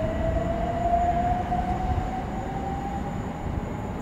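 Class 357 Electrostar electric multiple unit accelerating away, its traction motors giving a whine that rises slowly in pitch over the low rumble of the train, then fades near the end.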